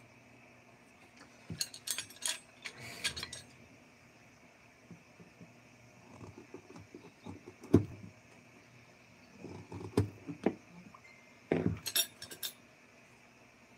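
Irregular clinks, clicks and knocks of small hard objects being handled and set down, in several short clusters, with one sharper knock about eight seconds in.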